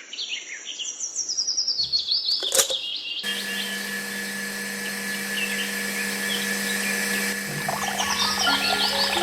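Birds chirping in quick runs of high calls. A steady low hum comes in about three seconds in, and more chirps follow near the end.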